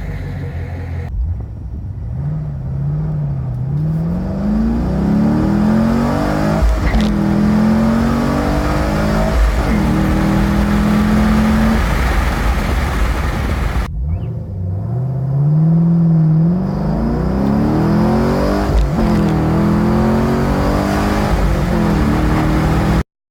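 Chevrolet Camaro SS's 6.2-litre LS3 V8 pulling hard through the gears, its pitch climbing and dropping at each shift, then holding steady at a cruise. After a sudden cut it makes a second run up through the gears, and the sound cuts off abruptly near the end.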